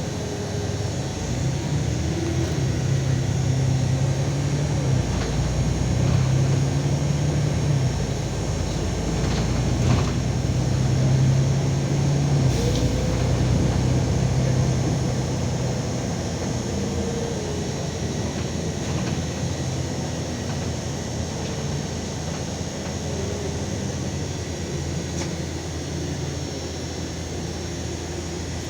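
LiAZ 5292.22 city bus under way, heard from inside the cabin: a steady engine drone with road rumble. The drone is loudest through the first half and eases off after about fifteen seconds.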